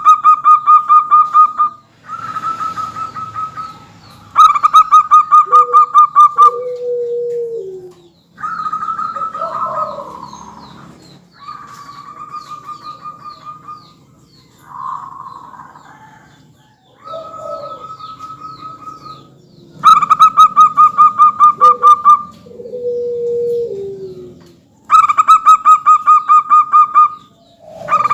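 Zebra doves (perkutut) singing over one another: repeated rapid trilled coos in bursts of about two seconds, answered by lower coos that slide down in pitch.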